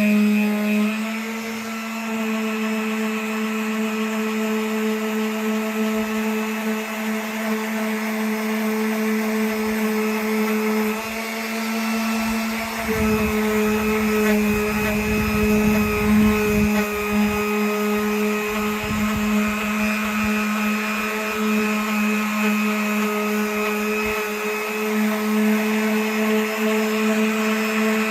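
Electric sander running steadily with 220-grit paper against a wooden kick drum shell: a constant motor hum with the rasp of sanding. It shifts slightly in pitch about a second in, and a rougher rumbling comes in for a few seconds around the middle as the sander bears harder on the shell.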